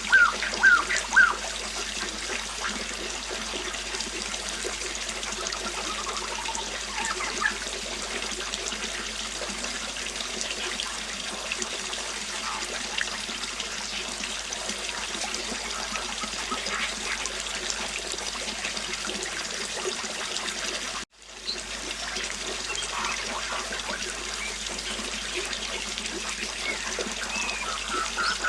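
River water flowing steadily, with a few short bird chirps at the start and again near the end. The sound cuts out for an instant about three-quarters of the way through.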